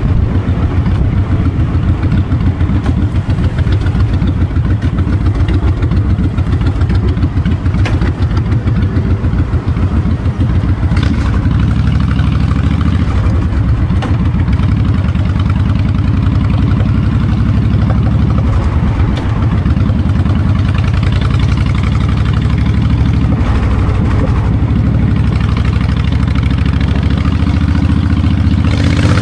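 Honda VTX 1300's V-twin engine running steadily through its exhaust with a low, pulsing rumble, with wind noise on the microphone.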